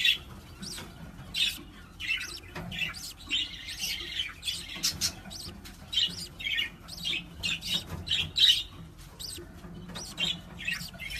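A bird chirping and squawking in a run of short, high calls, one to three a second.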